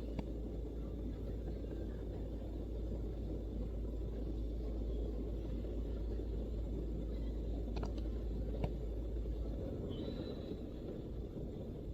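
Steady low background rumble, with a couple of faint clicks about eight seconds in and a brief high tone near the end.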